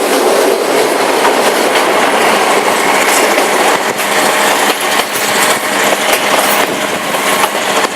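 Passenger train running along the track, heard from on board: a steady loud rattle and rumble of the coach, with wheels clicking over rail joints now and then.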